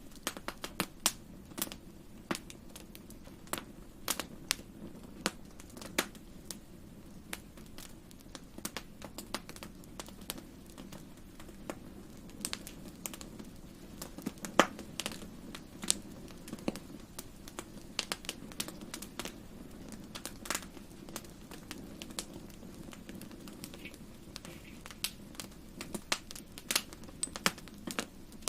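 Wood fire in a fireplace crackling, with sharp pops at uneven intervals over a low steady rumble.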